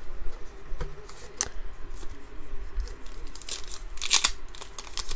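Foil wrapper of a trading card pack being torn open and crinkled: a few short sharp crackles, then a louder cluster of rips and crinkles about three and a half seconds in.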